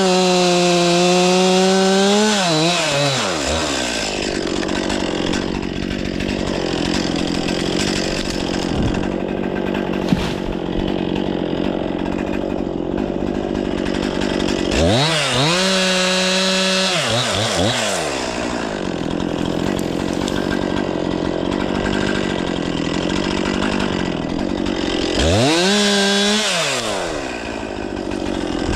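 Stihl MS 500i fuel-injected two-stroke chainsaw working through wood at full throttle. The engine screams high off the wood at the start, about halfway and near the end, and bogs to a lower, rougher note in between as the chain cuts under load.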